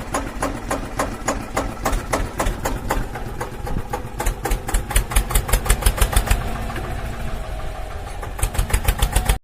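Small motor of a home-made miniature tractor running with a rapid ticking clatter that settles at about six ticks a second.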